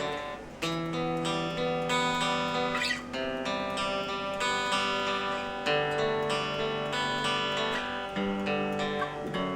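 Mexican Fender Stratocaster electric guitar played clean, with no distortion, through a small Roland Micro Cube amp: chords picked and strummed, notes ringing and changing about every second. It is heard through the amp's speaker as picked up by a voice recorder.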